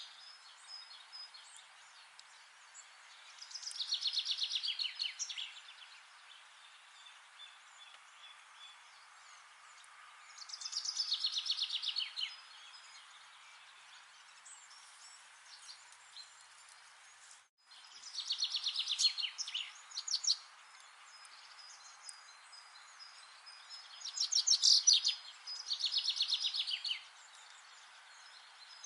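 A songbird singing a rapid, trilled phrase of quick notes that falls in pitch, about two seconds long. It repeats five times, over a steady soft background hiss. The sound cuts out completely for an instant about seventeen seconds in.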